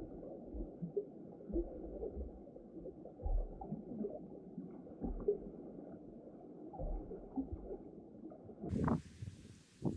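Muffled low rumbling with soft irregular knocks, with almost nothing above the low range. About nine seconds in the sound opens out into clearer open-air noise with sharp bumps.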